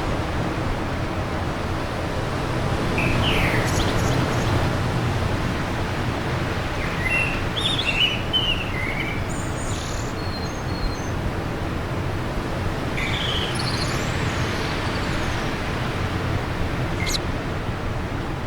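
Steady wind rushing, with small birds chirping over it in a few short runs of quick, high calls: about three seconds in, around eight seconds, and around thirteen seconds, with one brief chirp near the end.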